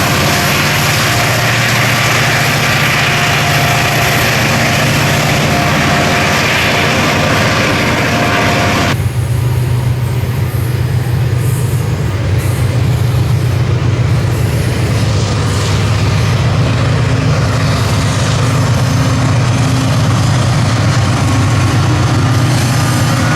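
Freight train with diesel-electric locomotives running, a steady low engine drone over broad rumbling noise. About nine seconds in, the sound changes abruptly: the high hiss drops away while the low drone stays.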